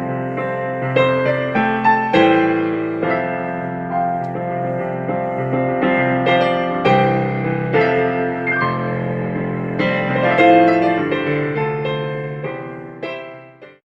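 Background piano music: a slow melody over chords, note after note struck and held, fading out near the end.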